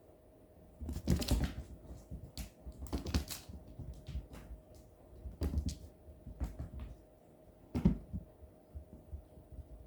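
Kittens scrambling and pouncing in play: a run of irregular taps, knocks and scuffles, loudest about a second in and again near the end.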